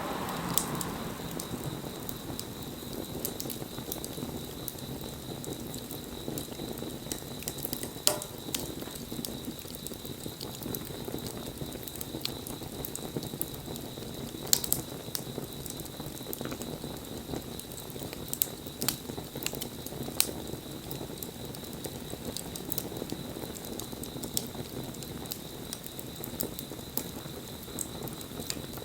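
Wood fire burning: a steady low rush of flames with constant small crackles and scattered sharp pops, a few loud ones standing out about 8, 14 and 20 seconds in.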